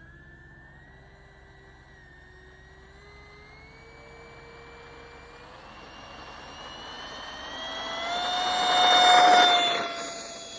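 Ducted fan of an RC F-16 model jet spooling up: its whine rises steadily in pitch and grows louder, peaks loud about nine seconds in, then quickly falls away with a slightly lower tone.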